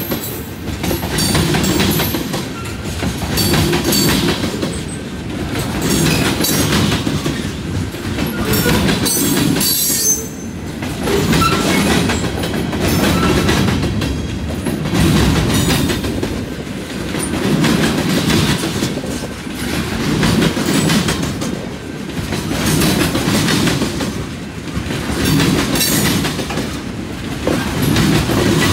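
Freight train cars rolling past slowly (tank cars, a covered hopper, then lumber-loaded centerbeam flatcars), their wheels clacking over the rail joints with a rumble that swells about every two seconds. A brief high wheel squeal comes about a third of the way through.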